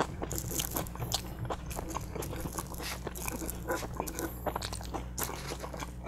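A man chewing a mouthful of butter chicken burrito close to the microphone: many irregular mouth clicks and smacks.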